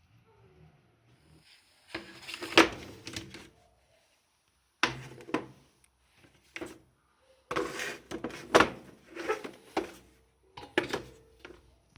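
Hard objects knocking and clattering as they are handled and set down on a work surface, in several irregular bursts: one about two seconds in, one about five seconds in, a busy run in the middle, and one near the end.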